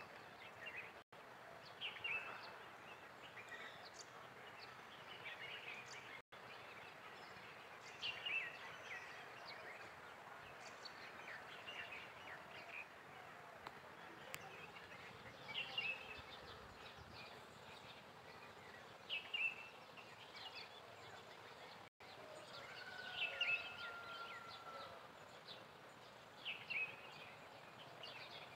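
Birds chirping in the open countryside: short, bright calls repeated every few seconds over a faint steady hiss, with one longer, even note about two-thirds of the way through.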